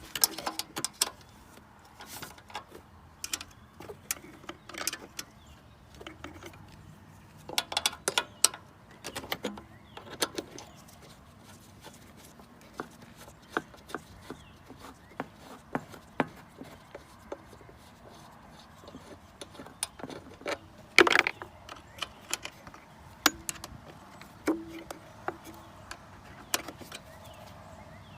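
Irregular clicks, taps and clinks of hand tools and metal parts being handled while working on an ATV's fuel system, with a louder knock about 21 seconds in.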